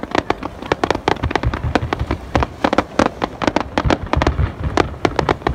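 Fireworks finale: a rapid, irregular barrage of aerial shell bursts and crackle, several sharp bangs a second over a low rumble.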